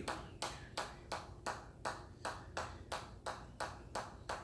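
Sharp strikes repeating in a very even rhythm, about three a second, each with a brief ring: one continuous set of repetitions being counted off.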